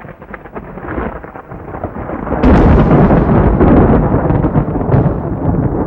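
Thunder from a severe thunderstorm: a rumble builds, then a loud, sharp crack about two and a half seconds in rolls on as heavy rumbling.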